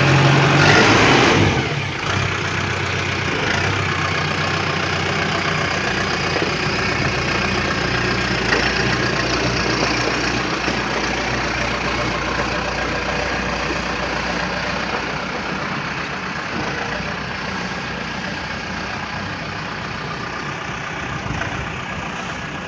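LS Plus 100 tractor's diesel engine running, louder for the first second and a half, then steady and slowly fading.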